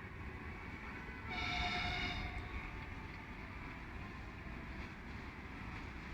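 TU10 narrow-gauge diesel locomotive sounding its horn once for about a second, a little over a second in, over a steady low rumble.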